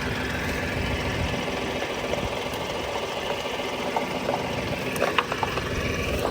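Small engine idling steadily, with a few light clicks about five seconds in.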